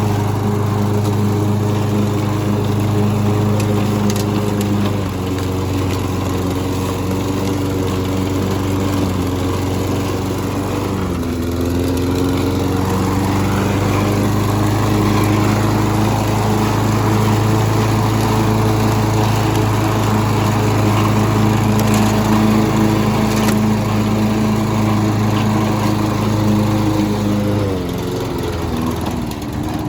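Walk-behind gas lawn mower engine running steadily while mowing, its pitch dipping a little about five seconds in, sagging again around eleven seconds before picking back up, and dropping lower near the end.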